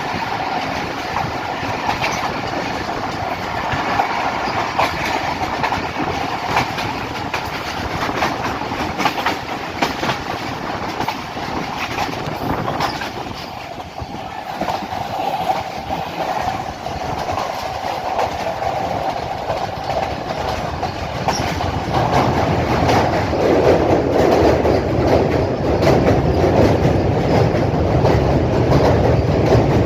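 Passenger train running at speed, heard from aboard: steady wheel-and-rail noise with a continual clickety-clack of wheels over rail joints. About two-thirds of the way through it grows louder and deeper.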